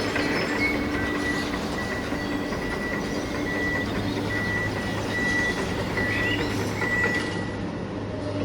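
Small electric motors of toy construction vehicles running steadily, with a faint high tone that comes and goes.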